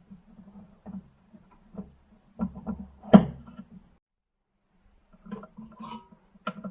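Scattered clicks and knocks of small parts and tools being handled, the loudest sharp knock about three seconds in, with a quieter run of clicks near the end.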